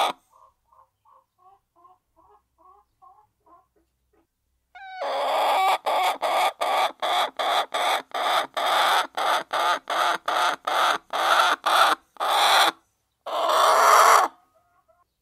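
Hens clucking: soft, quick clucks for the first few seconds, then loud, rapid calls about three a second starting about five seconds in, ending with two longer calls.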